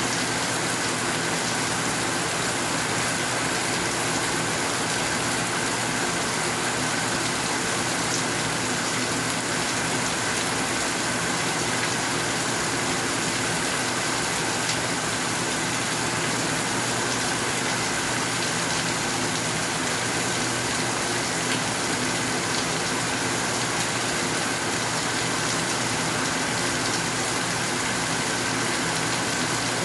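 Steady heavy rain, an even hiss that does not let up, with an occasional faint tick of a drop.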